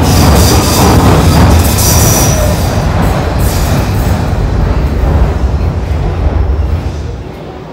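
Train running on the rails: a loud, steady low rumble with hissing and squealing from the wheels in the first couple of seconds, dying down near the end.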